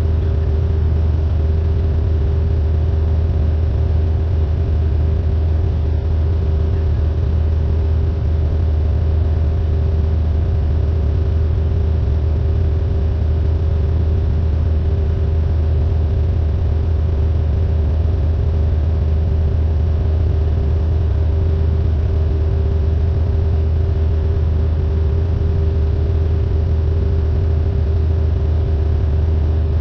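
Cessna 172N's four-cylinder Lycoming O-320 engine and propeller droning steadily at constant power in flight: a deep even hum with a steady higher tone above it.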